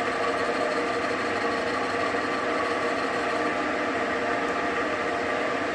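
Metal-turning lathe running steadily, spinning a welded steel tube in its chuck; an even machine hum with several steady tones.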